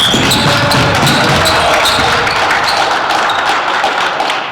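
Basketball game noise in a gym: a ball bouncing on the court amid a steady din, with short sharp sounds scattered throughout.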